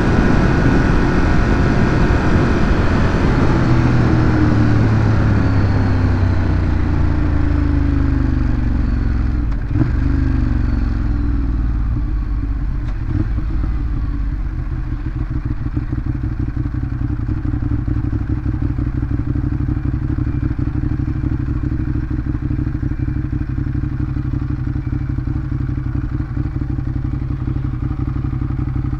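Ducati Monster 821's L-twin engine on its stock exhaust, the revs falling steadily over the first dozen seconds, then settling into a steady idle.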